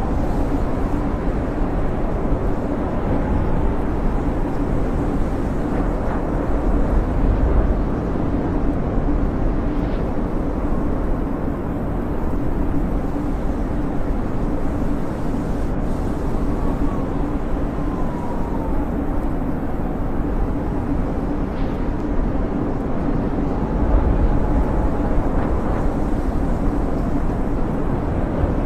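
Snowstorm wind: a steady low rumbling rush, with a faint whistle that rises and falls a few times.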